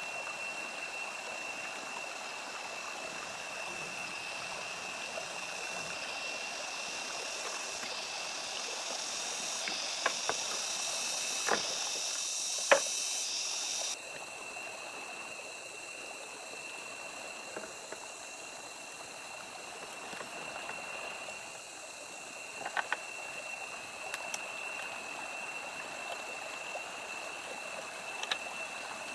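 Steady rushing of running water with a constant high-pitched drone over it. A few sharp clicks or knocks come around a third of the way in, again past the middle and near the end.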